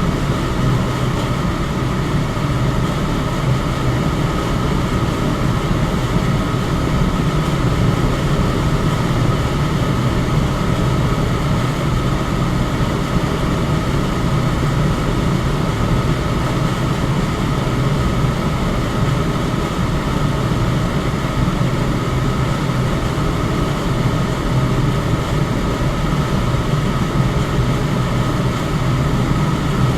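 Electric fan running steadily: a constant rushing whoosh of moving air, heaviest in the low range, with a faint steady tone above it.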